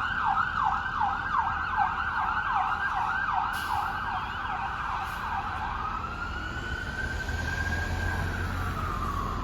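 Emergency vehicle siren on a fast yelp, about three sweeps a second, then switching to a slow wail that rises and falls near the end, over a low traffic rumble.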